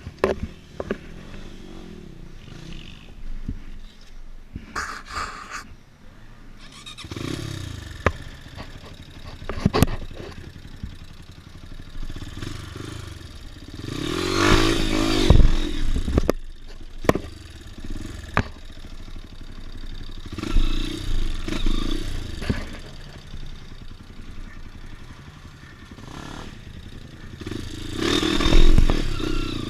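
Dirt bike engine revving up and dropping back in repeated bursts, loudest about halfway through and near the end, with a few sharp knocks in between.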